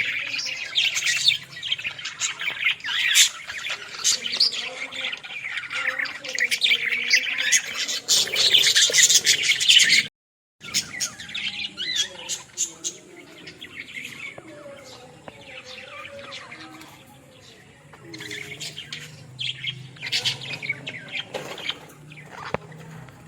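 A group of budgerigars chirping and warbling, with many chirps overlapping for the first ten seconds. The sound cuts out completely for a moment about ten seconds in, then the chirping returns more sparsely.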